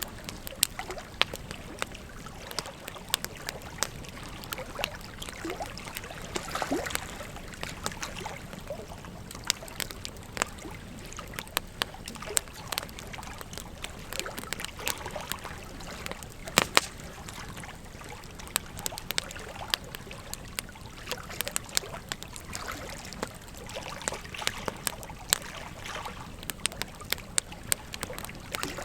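Wood fire crackling, with frequent sharp pops at irregular intervals over the steady rush of a flowing river. The loudest pop comes about halfway through.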